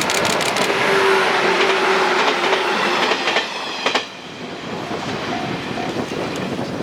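Shinano Railway 115 series electric train running past, its wheels clacking over rail joints with a steady hum under the running noise. The sound drops away abruptly about four seconds in, leaving quieter rumble.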